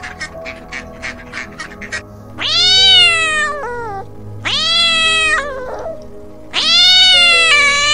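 A cat gives three long meowing calls about two seconds apart, each rising and then falling in pitch with a short trailing end. For the first two seconds, rapid short goose calls are heard first.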